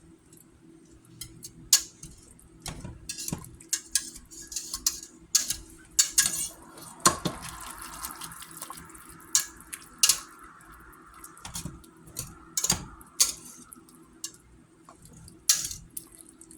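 Kitchen clatter of pots, dishes and utensils being handled: irregular sharp knocks and clinks, with a stretch of running water for a few seconds around the middle.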